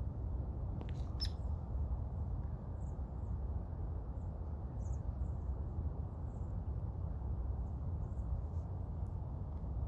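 Faint, short, high bird chirps every second or two over a steady low rumble of wind on the microphone, with two sharp clicks about a second in.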